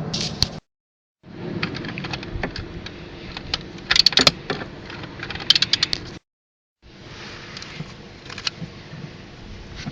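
Metal tools and outboard-motor parts clicking and rattling during hand disassembly, with quick runs of sharp clicks about four seconds in and again a moment later. Twice the sound drops out to dead silence for about half a second.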